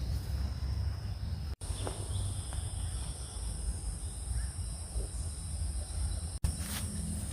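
Forest ambience of insects calling in steady high-pitched trills over a low rumble. The sound drops out for an instant twice.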